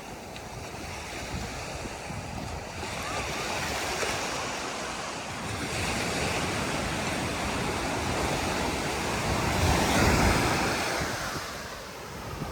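Sea surf on a sandy beach: waves breaking and washing up the shore in a steady rush, with one surge building to its loudest about ten seconds in before falling away.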